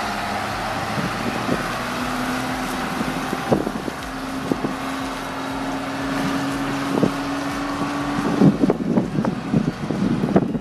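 Ford 9000 yard truck's diesel engine running, with wind buffeting the microphone and a few knocks.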